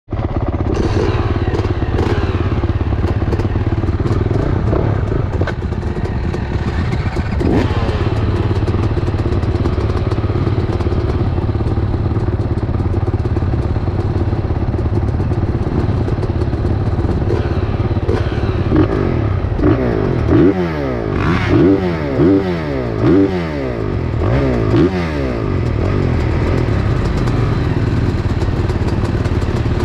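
Motocross motorcycle engine running steadily, then revved in a quick string of short bursts, each rising in pitch and dropping back, before settling to a steady run again.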